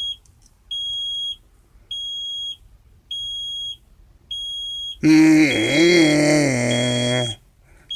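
A high electronic warning beeper in a truck cab sounding in even pulses, each about half a second long and a little more than a second apart. About five seconds in, a man's voice makes a loud, drawn-out call of about two seconds that dips and rises in pitch.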